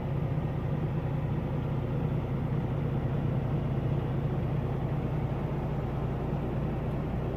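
Semi truck's diesel engine running steadily, heard from inside the cab as a constant low drone.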